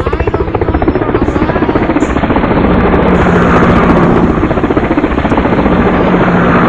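Helicopter flying close by, its rotor making a loud, rapid, steady chop.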